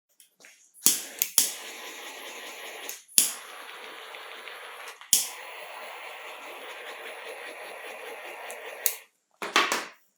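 A steady hiss lasting about eight seconds, broken briefly twice, with a sharp click where it starts, at each break and where it stops, then a short burst of hiss near the end.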